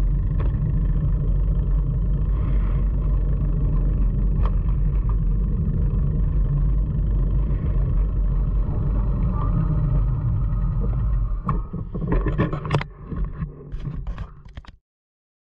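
Steady low rumble of wind buffeting a phone microphone on a moving bicycle. Near the end come a few sharp knocks and clicks of the phone being handled, and then the sound cuts off abruptly.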